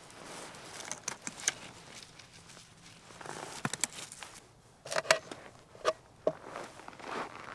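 Camping gear being handled and packed: rustling with a string of sharp clicks and knocks, a few of them short ringing clinks, the loudest cluster about five to six seconds in.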